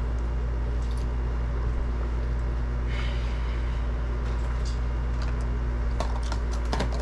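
A steady low hum fills the room, with a few faint wet mouth clicks from someone chewing a bite of muffin, mostly near the end.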